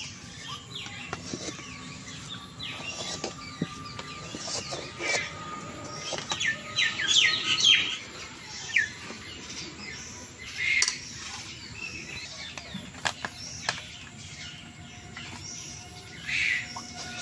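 Birds chirping in many short, quick high calls, busiest and loudest a little before the middle, with a few sharp clicks in between.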